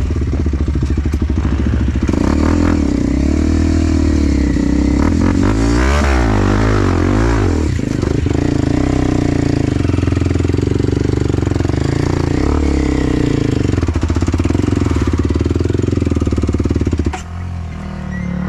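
Enduro dirt bike engine running under load, its revs rising and falling repeatedly, easing off near the end.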